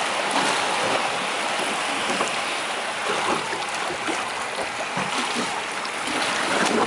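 Steady wash and slosh of seawater against a small boat's hull.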